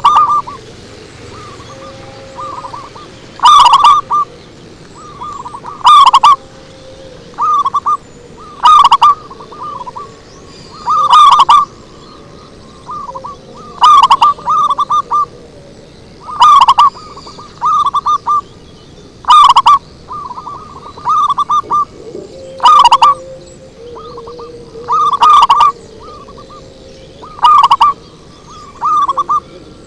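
Zebra dove (perkutut) cooing: a loud phrase of short, rapid coo notes about every two and a half seconds, with softer notes in between.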